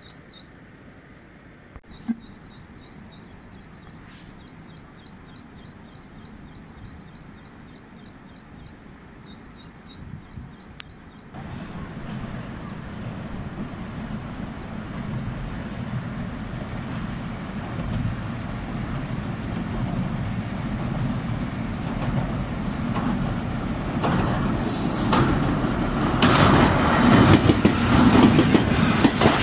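A bird calls in quick repeated chirps over quiet open-air ambience for the first ten seconds or so. Then a ZCU-20 diesel-electric locomotive hauling a passenger train approaches over a steel girder bridge, its rumble building steadily. In the last few seconds it turns into the loud clatter of the locomotive and coaches passing close.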